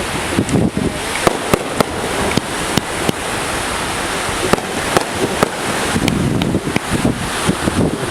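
Fireworks going off in an irregular string of sharp cracks and pops, several a second at times, over a steady rush of surf and wind.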